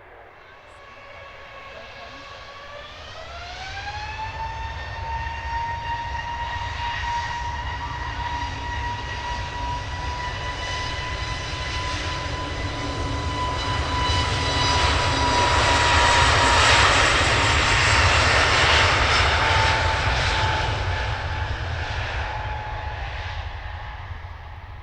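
Airliner's jet engines spooling up, the whine rising in pitch over a couple of seconds and then holding steady over a low rumble, as on a takeoff run. The noise builds to its loudest about two-thirds of the way through, then fades as the aircraft moves away.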